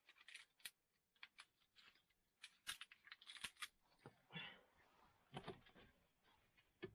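Faint scattered clicks and short rustles of small objects being handled, the loudest cluster around the middle.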